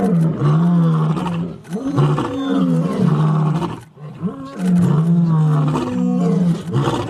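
Lion roaring, several long calls one after another.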